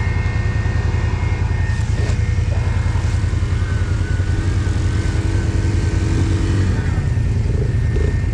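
ATV engine running steadily with a dense low rumble, heard from on the machine, with a faint high whine over it for a few seconds in the middle.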